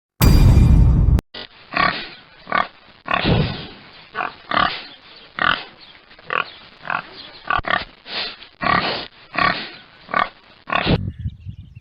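An animal making a long run of short, noisy calls, about two a second. A loud rushing burst about a second long comes before it.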